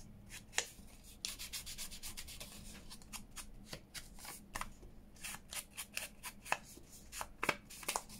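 Ink being rubbed onto the edges of paper to distress them, a quick irregular run of short scuffing strokes.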